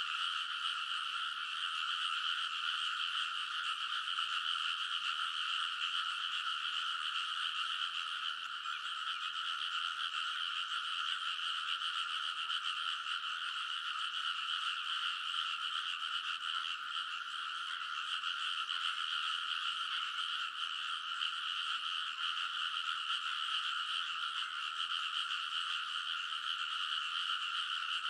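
A dense chorus of many frogs calling at once, a steady, unbroken din with no single call standing out.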